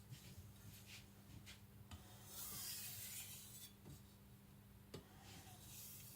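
Soft scraping strokes of a Tojiro white-steel nakiri blade drawn across a Naniwa Professional water stone in light stropping passes, with one longer, stronger stroke about two and a half seconds in.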